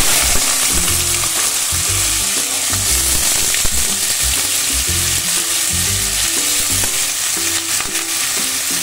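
Potato sticks frying in hot oil in a kadai: a loud, steady sizzle that begins suddenly as they go into the pan.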